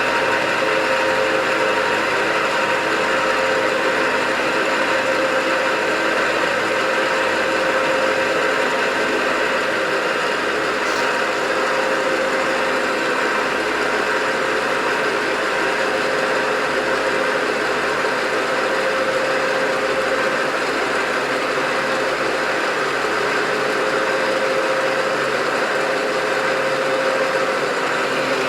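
Creworks 8x16 mini metal lathe running with its gear train and lead screw engaged, a steady motor and gear whine that does not change, as the power feed drives the carriage along the freshly greased lead screw.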